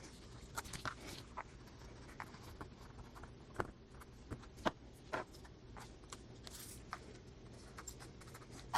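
Paper being handled on a craft table: light rustles and scattered soft taps and clicks, a few louder ones near the middle.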